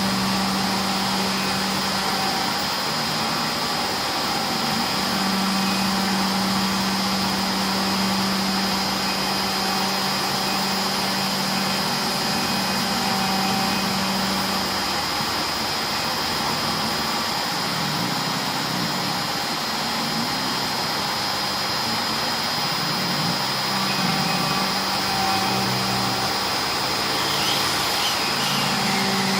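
Inverter-driven router spindle on a C-Beam CNC machine running, with a steady high whine over constant noise. Underneath, stepper motors hum at a low pitch that starts, stops and shifts as the axes move.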